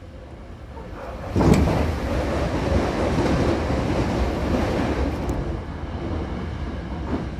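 Hankyu Kyoto Line electric train running, heard inside the car beside a closed door: a steady rumble of wheels and motors that jumps sharply louder about a second and a half in, with a brief click, then holds steady.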